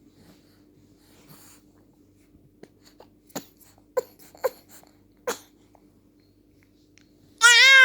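Three-month-old baby making odd animal-like vocal sounds: a few short grunts and squeaks, then a loud, high, wavering squeal lasting under a second near the end. A faint steady hum runs underneath.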